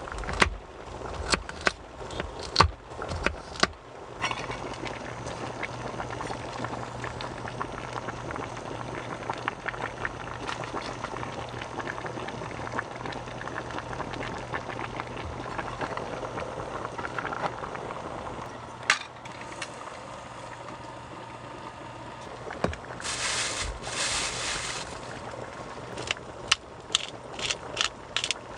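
Water heating and bubbling in a pot, with a steady electric hum beneath, starting abruptly a few seconds in and easing off about two-thirds of the way through. Sharp handling clicks come before it and near the end, with a short hiss in between.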